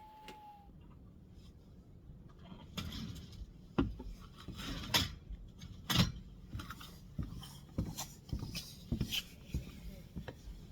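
Irregular light knocks, clicks and rubbing of objects being handled and set down, with a brief steady tone at the very start.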